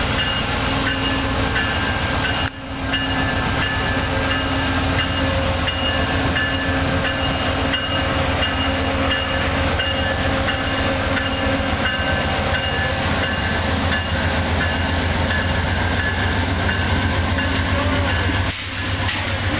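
Amtrak GE Genesis P42DC diesel locomotive slowly hauling Amfleet passenger coaches past: a steady, loud low diesel drone with the wheels rolling over the rails.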